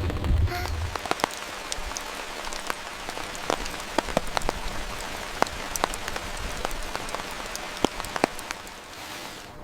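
Steady rain falling, with many separate drops striking a hard surface in sharp irregular ticks. A low rumble fades out in the first second.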